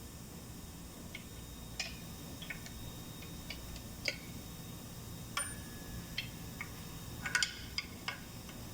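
Scattered light clicks and clinks of tools or engine parts being handled, one with a brief metallic ring about five and a half seconds in and a quick cluster near seven and a half seconds, over a low steady hum.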